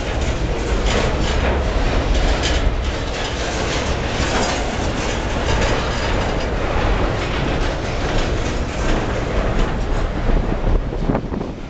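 Double-stack intermodal container train's well cars rolling slowly past, steel wheels clicking over the rail joints over a steady rumble and rattle of the cars.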